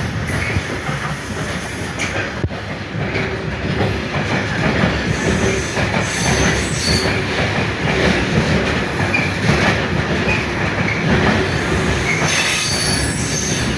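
Freight train hauled by a Class 66 diesel-electric locomotive rolling steadily past, its wagons' wheels clattering over the rail joints with brief high wheel squeals.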